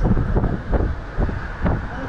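Passenger train running along the track: a steady rush of wind on the microphone with irregular low knocks and rattles from the wheels and carriage.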